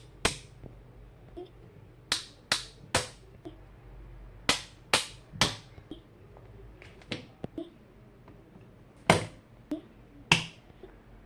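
Sharp clicks and taps of stationery being handled while making a journal spread, about a dozen irregular strikes with short pauses between them.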